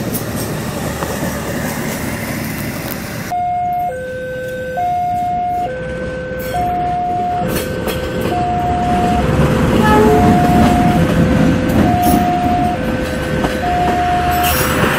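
A passenger train rolling past on the rails. After a cut about three seconds in, an electronic two-tone alarm alternates high and low, about one tone a second. Under it a diesel locomotive and its carriages pass, louder from about ten seconds in.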